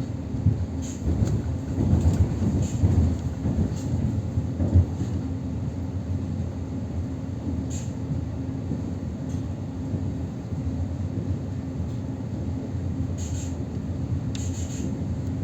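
Commuter electric train running along the line, heard from inside the carriage: a steady low rumble of wheels on rails with a constant hum. It is rougher, with a few knocks, in the first five seconds.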